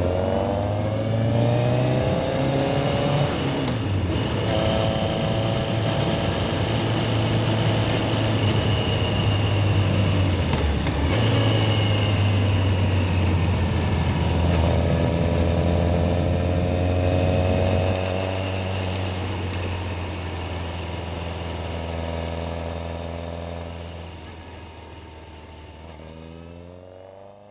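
Yamaha XJR1300's inline-four engine running on the road, revving up through gears several times with the pitch climbing, then settling. The sound fades away over the last several seconds.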